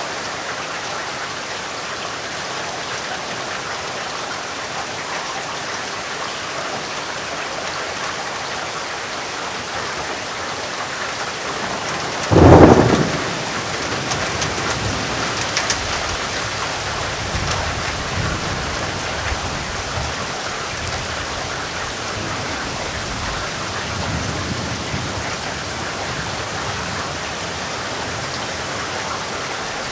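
Steady heavy rainfall with a sharp, loud thunderclap about twelve seconds in, followed by low thunder rumbling on and off for several seconds.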